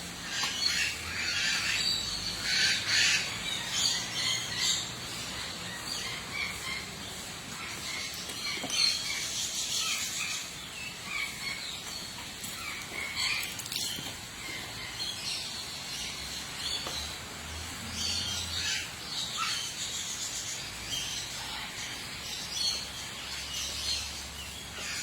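Small birds chirping and calling, many short high chirps overlapping, busiest in the first few seconds and again near the middle.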